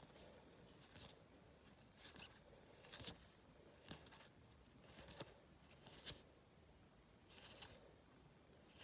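Match Attax football trading cards being handled: faint, crisp flicks and rustles about once a second as the cards are leafed through one by one.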